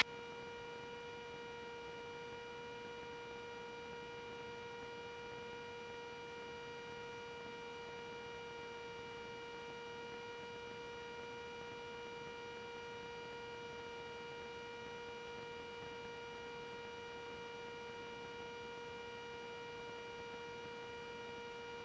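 Faint, steady electrical hum in the aircraft's intercom audio feed: one unchanging tone with a stack of higher overtones, between radio calls.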